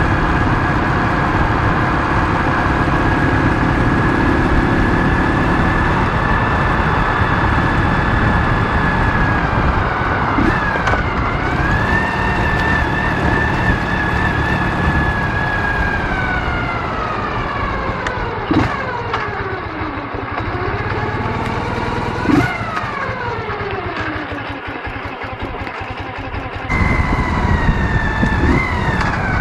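Ural motorcycle's 650 cc boxer twin running at speed, with heavy wind rush on the microphone. About ten seconds in the revs dip and recover as it shifts gear; from about sixteen seconds the engine note falls steadily as the bike slows, with a few sharp clicks, and near the end it is suddenly loud again.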